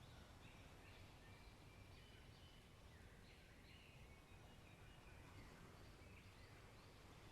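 Faint forest birds chirping, a scatter of short calls, over a soft low rush of distant waves.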